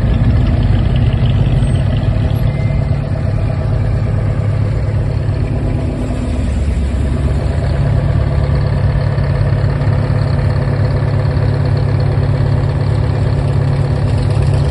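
Classic car engine idling steadily, its low rumble dipping slightly about six seconds in before settling again.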